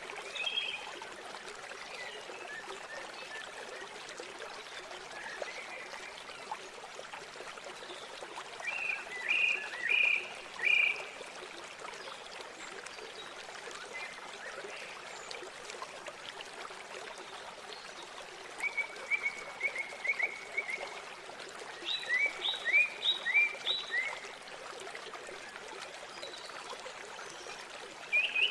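Steady rush of flowing river water, with birds calling in short bursts of quick high notes, about nine seconds in, again around nineteen seconds, and a falling series of notes around twenty-two seconds.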